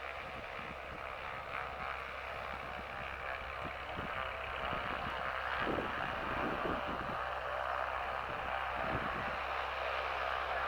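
A light airplane's piston engine and propeller running steadily, slowly growing louder.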